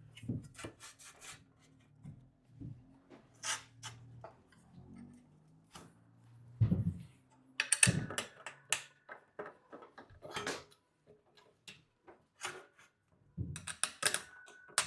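Bed-frame bar and bracket parts being handled and fitted together: scattered clinks and knocks with rubbing between them, and a brief metallic ring near the end.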